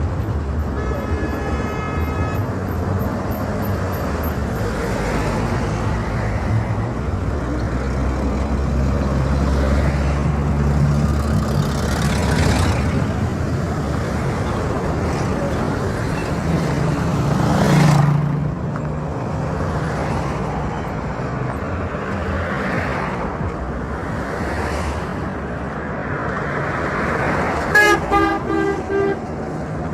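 Road traffic: vehicle engines running and passing, with one vehicle going by loudly a little past halfway. A car horn sounds faintly near the start and toots several times in quick succession near the end.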